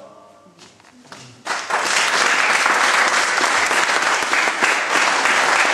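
The last notes of a sung gospel song die away, and about a second and a half in, an audience breaks into steady applause.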